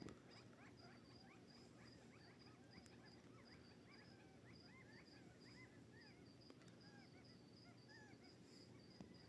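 A flock of quail giving many short, soft chirping calls, with a cricket's steady high-pitched pulsed chirping behind them. Faint.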